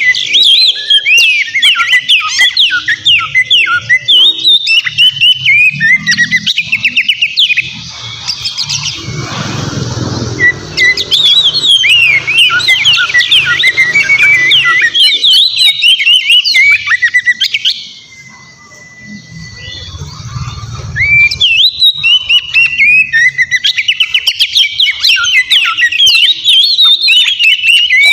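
Oriental magpie-robin singing loudly: a fast, unbroken stream of varied whistled and chattering notes. It breaks off briefly about eight seconds in, and in a quieter stretch past the middle it holds one long, flat whistle before the rapid song resumes.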